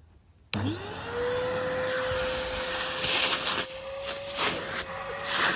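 Numatic Henry NRV 370 vacuum cleaner switched on about half a second in: its motor whine sweeps up quickly and settles to a steady pitch over a loud rush of air. It runs with the hose off for a suction test, the air rush surging a few times.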